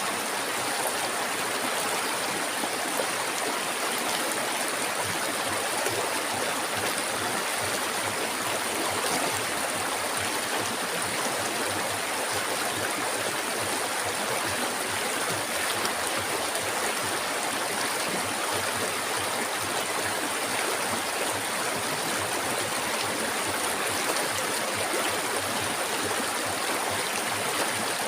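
Flowing river water, a steady, even rushing and babbling that doesn't change.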